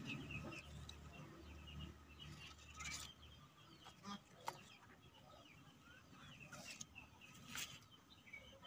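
Faint bird calls, short chirps and clucks repeating throughout, with a few light clicks or taps.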